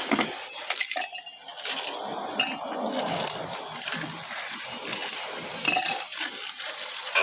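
Eating at a table: dishes and tableware clinking several times, with chewing and other mouth noise between the clinks.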